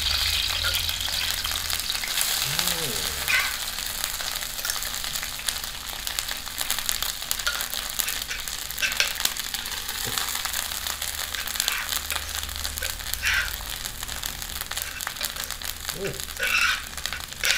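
Pounded chili, garlic and turmeric curry paste sizzling and crackling steadily as it fries in hot oil in a wok, with a few short clicks.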